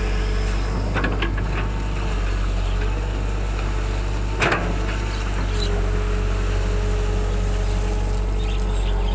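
Excavator's diesel engine running steadily, with one sharp clunk about four and a half seconds in.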